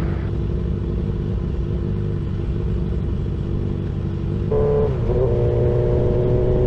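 Suzuki GSX-R sport bike engine running at a steady pitch, with a shift in its tone about four and a half seconds in.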